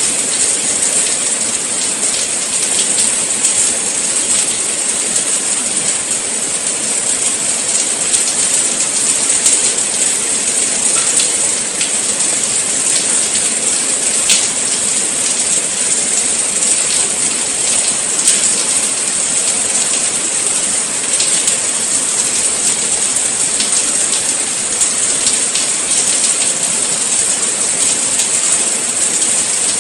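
Steady rain falling: an even, bright hiss with scattered sharper drop ticks here and there.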